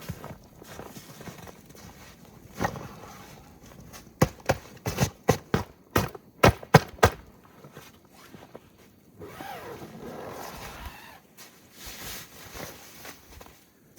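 A quick run of about a dozen sharp knocks in the middle, with quieter irregular knocking and rustling around them.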